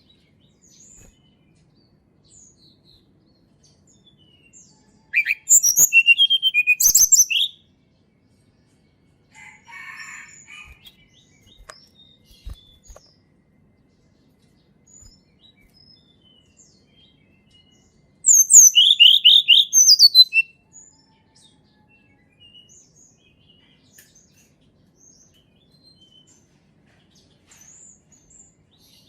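Flowerpecker (tledekan gunung) calling. Two loud bursts of rapid, high-pitched twittering chirps, each about two seconds long, come about five seconds in and again about eighteen seconds in, with faint scattered chirps between.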